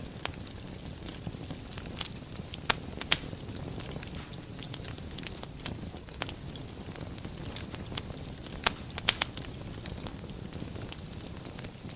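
Wood fire burning in a fireplace: a steady low rumble with scattered sharp crackles and pops, bunched into quick runs about three seconds in and again about nine seconds in.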